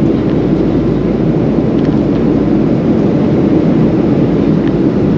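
Steady cabin noise of a Boeing 737 in flight: the even, loud drone of the jet engines and rushing air, heard from inside the passenger cabin.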